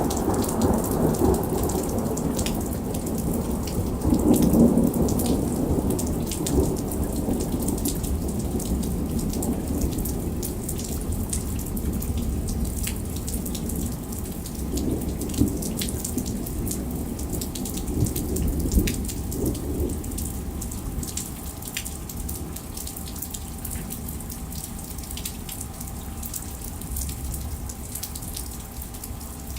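Thunderstorm: steady heavy rain with many sharp drop hits, under low rolling thunder that is loudest a few seconds in, swells again past the middle, and eases toward the end.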